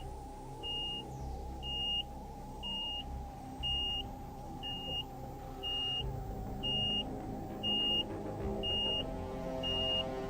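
A short, high electronic beep repeating about once a second, over a steady low drone.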